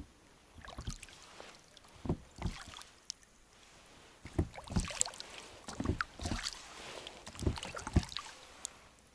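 Oars rowing a small boat: a run of splashing strokes, each with a knock, about every second and a half.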